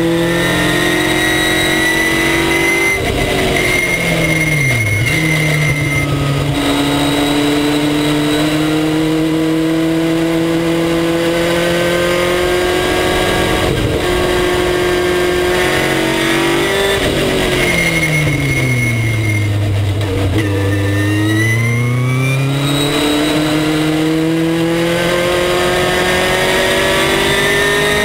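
Race car engine at full throttle, heard from the car, its pitch climbing steadily with brief lifts. About three seconds in the revs dip and recover; later they fall steeply for several seconds as the car brakes and downshifts for a slow corner, then climb again as it accelerates out.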